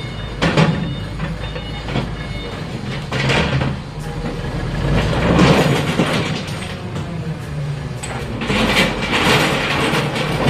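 A heavy diesel engine running steadily under repeated bursts of scrap iron clattering and scraping, as the scrap is handled and loaded. The loudest bursts come near the middle and near the end.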